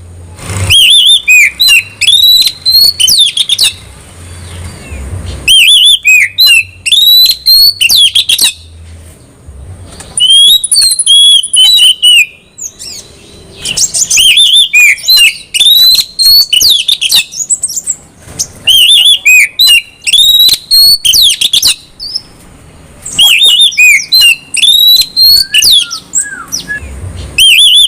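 Oriental magpie-robin (kacer) singing loudly: fast, varied whistled phrases and trills delivered in bouts of two to four seconds, each separated by a short pause.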